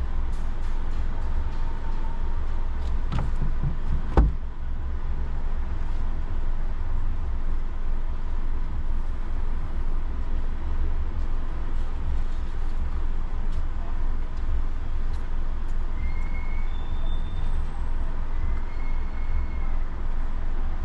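Steady road and engine noise heard inside a moving car's cabin, a low rumble. A single sharp knock about four seconds in.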